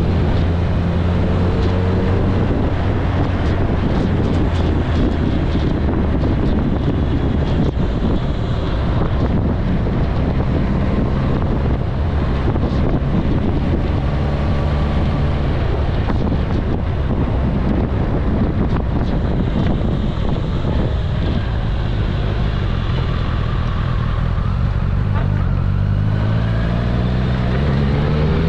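Kawasaki ZRX1100's inline-four engine running at a steady cruise, with wind rushing over the helmet or bike-mounted microphone. Near the end the engine note rises as the bike speeds up.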